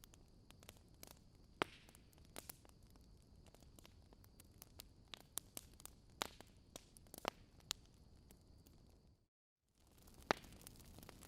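Wood fire crackling in a fireplace: irregular sharp pops and snaps over a low hiss. About nine seconds in, the sound cuts out completely for half a second, then resumes.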